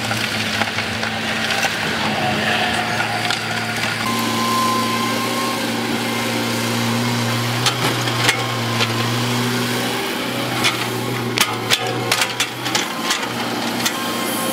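Heavy diesel earth-moving machinery running steadily with a low drone. In the second half come a series of sharp knocks and cracks, bunched most thickly near the end, like rock being broken or knocked about.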